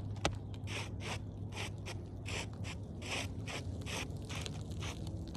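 Repeated short scraping strokes, about three a second, over a steady low hum, with one sharp click near the start.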